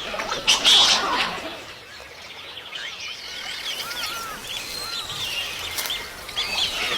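Birds chirping, many short calls that swoop up and down in pitch, a few lower arched calls among them. A loud noisy rush about half a second in is the loudest part.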